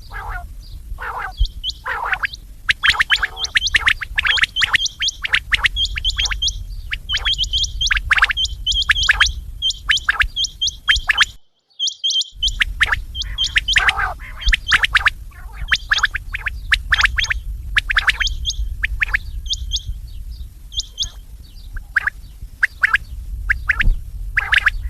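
Quail calling over and over in quick, sharp notes, a dense run of short calls, over a steady low rumble. The sound cuts out completely for under a second about halfway through.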